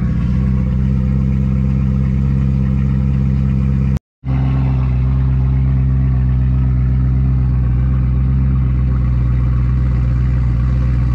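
BMW E92 M3's 4.0-litre V8 with a loud exhaust, idling steadily just after a cold start. The sound cuts out for a moment about four seconds in.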